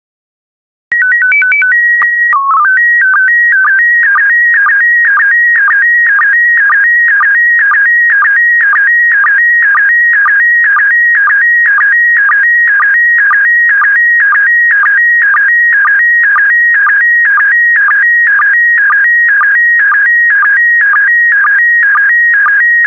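Slow-scan TV (SSTV) signal in PD120 mode beginning about a second in: a few quick beeps, a steady leader tone, a brief lower-pitched header code, then the warbling picture tones of the image being sent, pulsing about twice a second.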